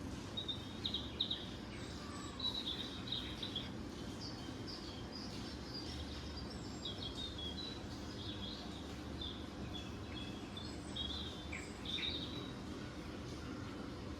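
Small birds chirping, short high calls scattered throughout, over a steady low background rumble.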